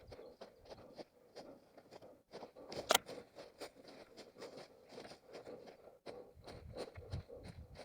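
An orienteer's running footsteps on forest ground, quick and even at about three or four steps a second, with crunching and scraping underfoot. One sharp snap about three seconds in.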